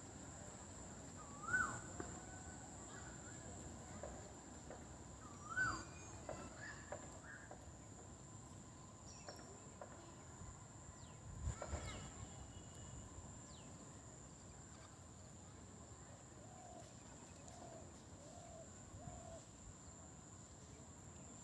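Outdoor ambience with birds calling now and then: two louder calls about two and six seconds in, and a few soft repeated notes later, over a faint, steady high-pitched whine.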